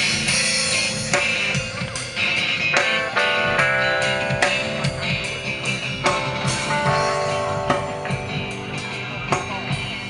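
A band playing without vocals: strummed electric guitar over a drum kit keeping a steady beat.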